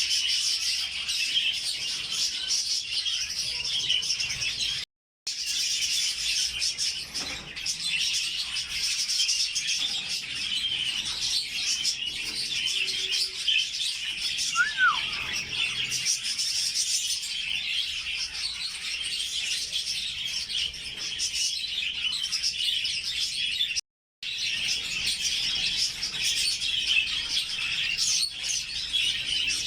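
A flock of budgerigars chattering and warbling continuously, a dense mass of overlapping chirps. The sound cuts out completely twice for a fraction of a second.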